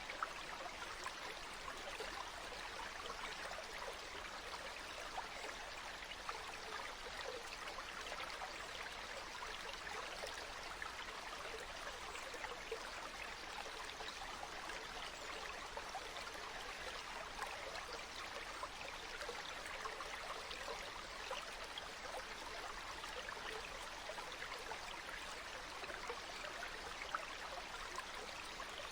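Water flowing and splashing steadily in a stream, with many small splashes and trickles.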